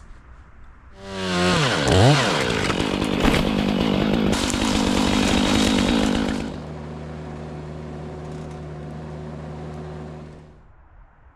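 Chainsaw revving up about a second in and running at full throttle for several seconds, then dropping to a steady idle about halfway through and cutting off shortly before the end.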